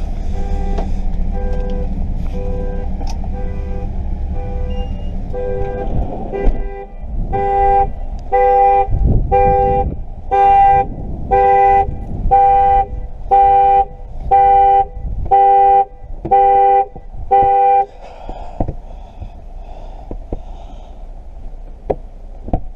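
2013 Chevrolet Captiva's horn sounding its alarm, honking in regular pulses: quieter and quicker at first, then loud honks about once a second, until it stops near the end. The car's theft alarm has been set off while its new key is being programmed.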